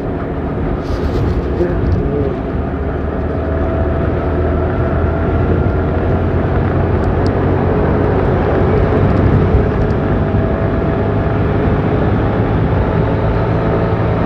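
Motorcycle riding at road speed: wind rushing over the microphone together with steady engine and road noise.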